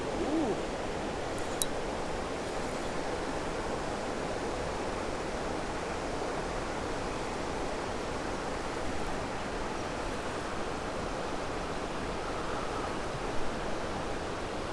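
Creek water rushing steadily, an even unbroken hiss, with one faint click about a second and a half in.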